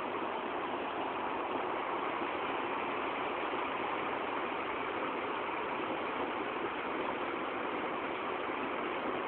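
Heavy rain pouring down, a steady, even hiss with no break.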